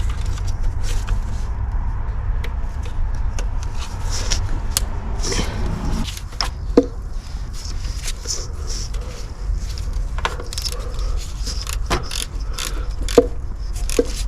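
Metal hand tools and parts clinking, clicking and scraping while a car's starter motor is being replaced, with scattered sharp knocks over a steady low rumble.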